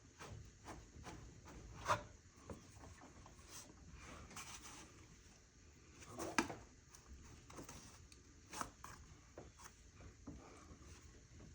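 Faint clicks, knocks and rubbing of hand tools and engine parts being handled. Two sharper knocks come about two seconds in and just after six seconds.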